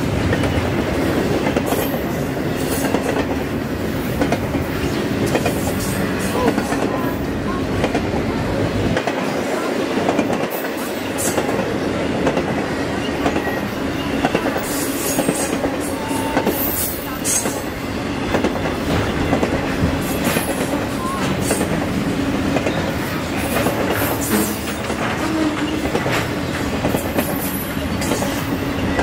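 Train cars rolling past steadily on steel rails, the wheels clicking over the rail joints, with a few short high wheel squeals around the middle.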